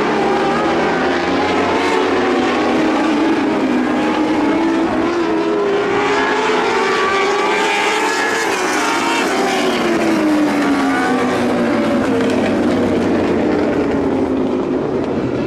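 Several lightning sprint car engines running on a dirt oval, their pitches rising and falling as the cars accelerate and pass; the sound swells near the middle and the pitch drops as the cars go by.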